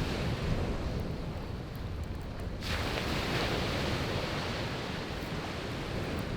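Sea waves breaking on a beach, a fresh wash of surf coming in about two and a half seconds in and slowly easing, over a low rumble of wind on the microphone. A few faint crackles of a burning wood campfire.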